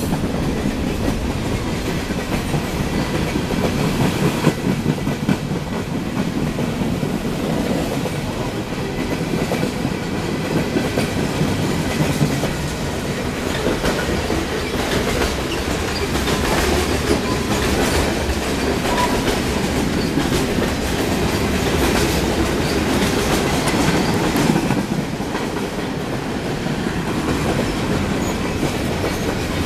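Freight train's boxcars, covered hoppers and tank cars rolling past close by: a steady rumble of steel wheels on rail, with the clickety-clack of wheels over rail joints.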